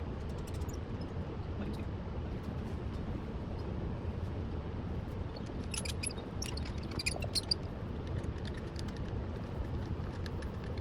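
Steady low rumble of background machinery or room noise. A short run of light clicks and clinks comes about six to seven and a half seconds in.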